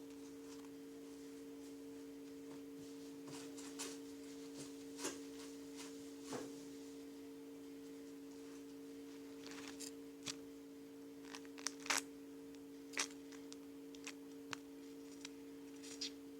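Scattered light clicks and taps, like small plastic objects being handled and set down on a table, about a dozen spread irregularly with a sharper pair about twelve seconds in, over a steady low two-tone hum.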